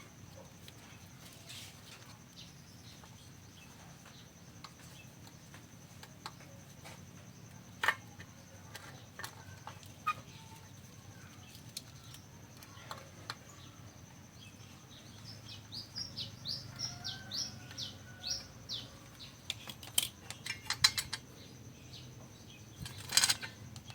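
Scattered light clicks and taps of small objects being handled, with a quick run of about a dozen short, falling bird chirps about two-thirds of the way in, over a faint steady high whine.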